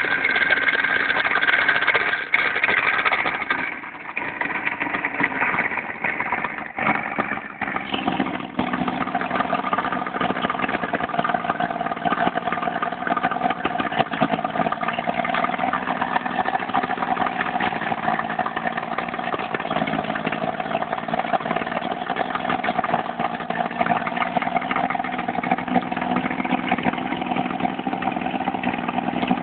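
150 hp outboard motor on an 18 ft bass boat running. Its sound drops and falters a few seconds in, then settles into a steady, even note.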